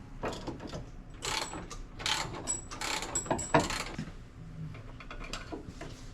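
Hand ratchet clicking in short irregular strokes as a nut is drawn up to compress a stiff new strut rod bushing on the front suspension.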